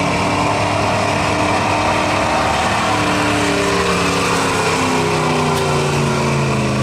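Stock pickup truck's engine running hard at high revs under heavy load while pulling a weighted sled. Its pitch slowly sinks over the last few seconds as the engine is dragged down by the load.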